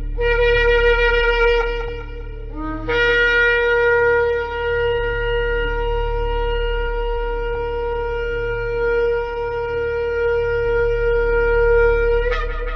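Shofar blasts: a short blast of about two and a half seconds, then a very long held blast lasting about nine seconds that breaks upward in pitch at its end. A low steady drone lies underneath.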